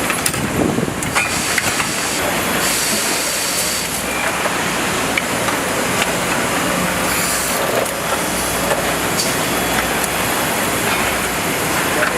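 Steady factory machinery noise: a continuous hiss and rumble with a few faint clicks.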